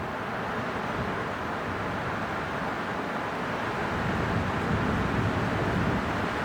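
Strong wind blowing in a steady rush with no distinct tone, gusting slightly louder about two-thirds of the way through.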